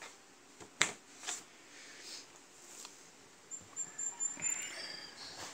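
A couple of sharp clicks about a second in, then a quick run of high, thin bird chirps about three and a half seconds in, over faint background hiss.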